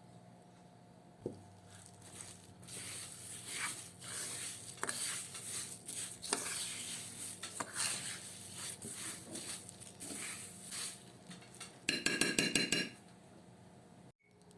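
Dishes and cutlery clinking and scraping in a kitchen, with scattered light knocks, then a short rapid rattle lasting about a second near the end.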